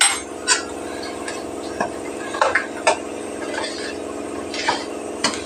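Metal spoon clinking and scraping against a pan while chicken gravy is stirred, in about nine irregular knocks, over a steady low hum.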